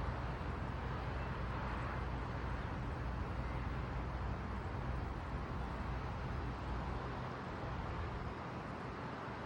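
Strong gusty wind blowing across the microphone: a steady low rush with hiss above it, easing slightly near the end.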